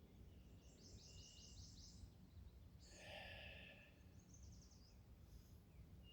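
Faint birds calling: a quick series of high repeated notes about a second in and another short series just after four seconds, with a brief soft rush of noise about three seconds in, over a low steady outdoor rumble.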